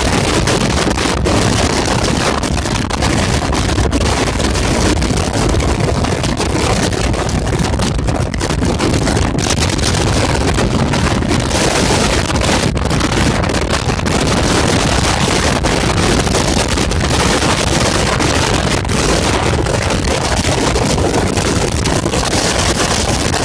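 Strong coastal wind buffeting the microphone: a loud, steady rush with a heavy low rumble.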